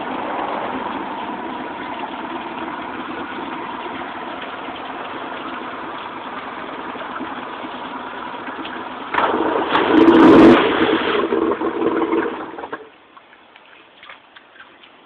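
2008 Mercury car engine idling after a cold start, then revved hard for a few seconds about nine seconds in, and cut off abruptly shortly after.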